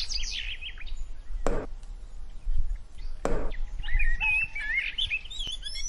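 Small birds chirping and warbling, with two sharp knocks about a second and a half and three seconds in.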